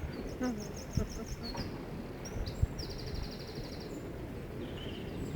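Songbird singing: a quick run of about seven high chirps, then a fast rapid trill about halfway through, over a steady low outdoor rumble with a couple of short knocks.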